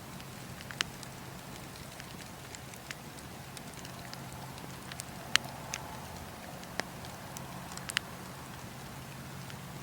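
Bonfire crackling, with irregular sharp pops scattered through, the loudest a little over halfway, over a steady low hum.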